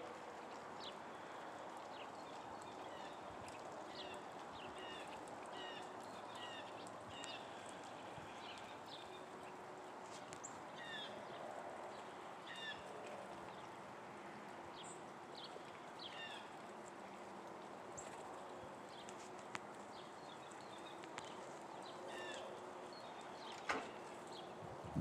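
Small wild birds chirping and calling in short, repeated notes around a feeding area, faint over a steady background hiss, with a sharp click near the end.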